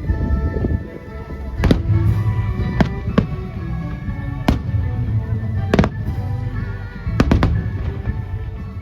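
Fireworks shells bursting in a display: about seven sharp bangs at irregular intervals, two of them close together near the end, over a low rumble, with music playing throughout.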